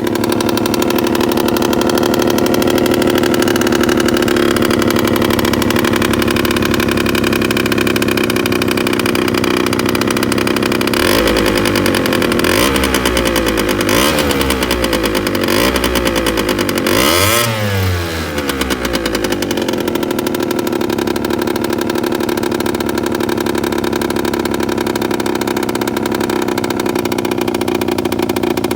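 Takeoka Abbey microcar's 50cc two-stroke Honda Super Dio (AF27) engine with a modified Gyro expansion chamber, running steadily, then revved in about five quick blips near the middle, the last the biggest, before settling back to a steady run.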